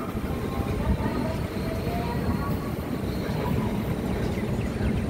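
Passenger train coach rolling along the rails past a station platform, heard from its open doorway: a steady low rumble of wheels and running gear.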